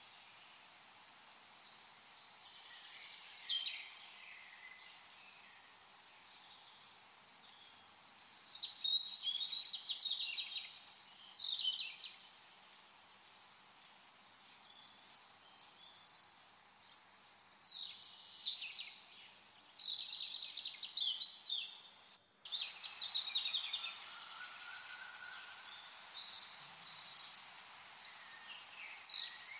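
Songbirds singing in four spells of quick, high chirping phrases, each a few seconds long, over a steady hiss. The hiss cuts out for an instant about three-quarters of the way through.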